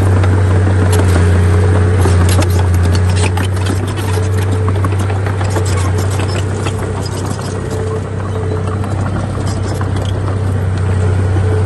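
Heavy diesel earthmoving machinery running with a steady low drone and a constant higher whine, with a run of clanks and scrapes from metal, soil and rock in the first half.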